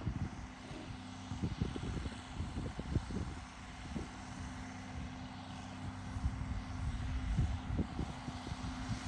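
Farm tractor engine running steadily while it pulls a planter across the field, with gusts of wind buffeting the microphone.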